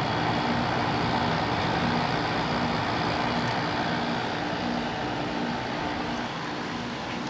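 1995 Frigidaire-built 5450 BTU window air conditioner running with its compressor and fan on: a steady hum under an even rush of air. It sounds healthy.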